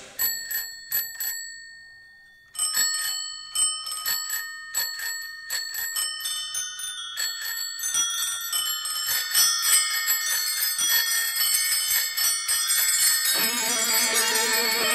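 Bicycle bells ringing in the bell interlude of a recorded rock song. There are a few single rings, a short gap, then many bells ringing together and growing denser, and a guitar comes in near the end.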